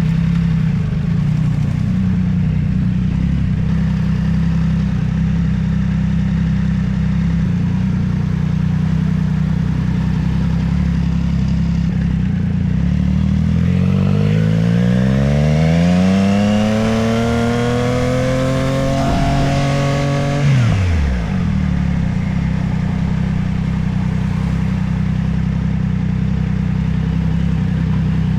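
Motorcycle engine running steadily. About halfway through it revs up, its pitch climbing smoothly for several seconds. It then drops sharply back to the earlier steady note.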